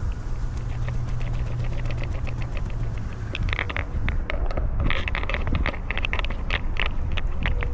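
Collar-mounted camera rubbing and clicking as the cat moves, with a rapid run of small clicks and jingles that grow louder about halfway through, over a steady low rumble.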